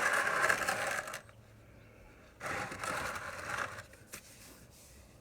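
Two stretches of scraping, rubbing noise, the first at the start and the second about two and a half seconds in: hands gripping and trying to twist off a motorcycle oil filter that is too tight to turn by hand.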